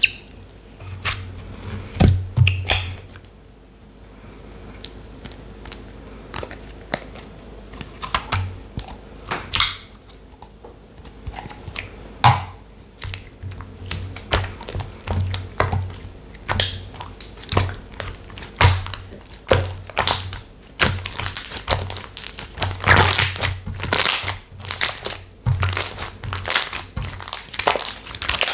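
Textured slime being squeezed, poked and stretched by hand, giving irregular crackles, clicks and crunches. The crackles come thicker and louder in the last several seconds.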